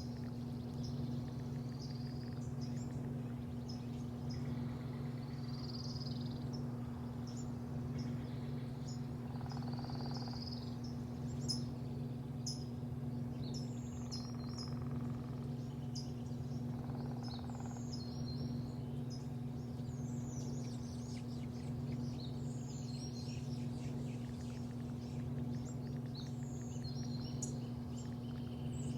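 Birds chirping and calling over a steady low mechanical hum.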